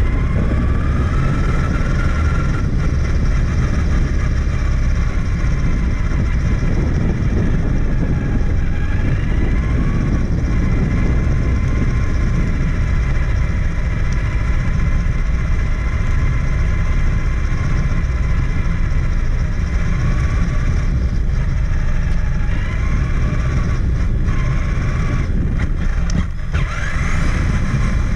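Traxxas Summit 1/10-scale electric RC truck driving, heard onboard: its motor and gear whine rising and falling in pitch with speed several times, over a steady low rumble.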